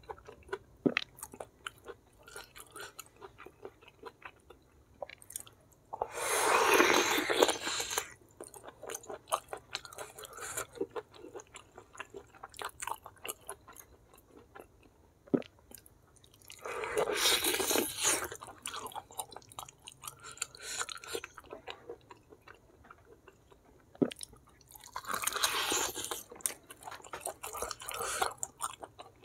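Close-miked chewing and biting of a person eating cow's-foot kikil with rice and sambal, full of small wet mouth clicks. Three louder, noisier bursts of about two seconds each come about six, seventeen and twenty-five seconds in.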